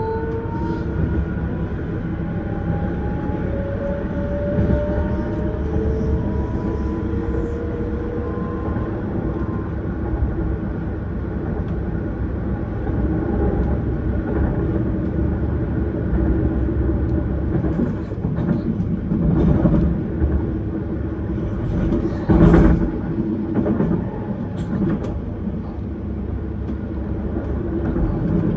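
Vienna S-Bahn electric train heard from on board, pulling away from a station. Over the first several seconds its traction motors whine upward in pitch as it accelerates. It then settles into a steady rumble of wheels on rails, with a few louder clunks in the last third.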